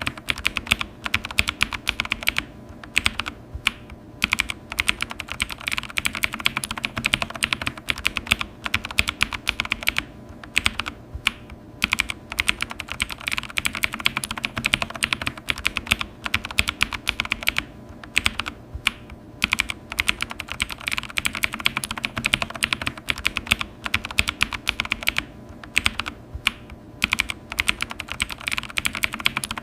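Computer keyboard being typed on fast, a dense run of key clicks with brief pauses every few seconds.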